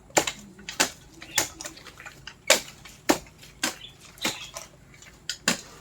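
A series of sharp knocks with a slight metallic ring, about one every half second at an uneven beat.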